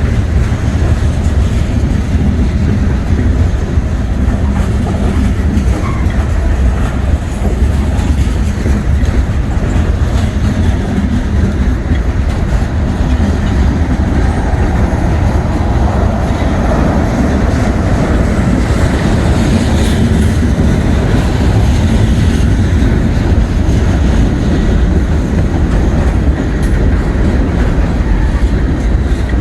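A freight train's cars rolling steadily past, with the wheels clattering over the rail joints.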